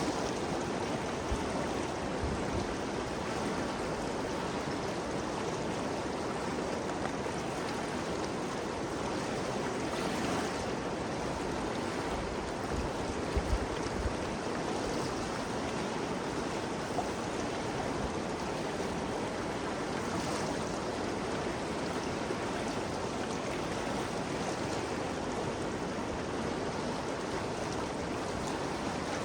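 Ganges River flowing: a steady, even rush of moving water, with a few brief low thumps about halfway through.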